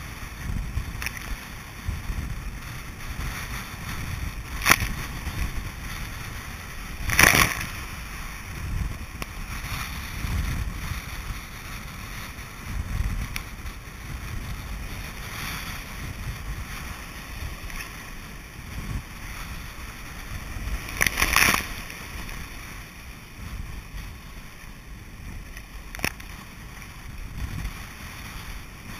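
Kayak in wind-driven surf: wind rumbles on the microphone under a steady wash of water, broken by several sharp splashes, the loudest about seven seconds in and again about twenty-one seconds in.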